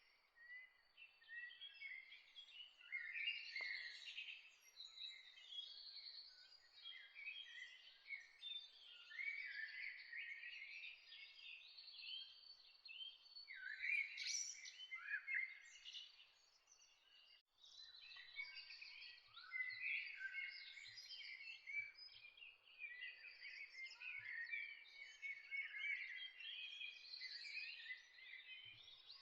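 Many songbirds chirping and trilling together in a dawn chorus, overlapping high calls with a brief lull about two-thirds of the way through.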